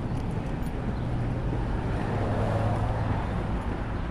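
Steady background traffic noise with a low engine-like hum that swells slightly in the middle.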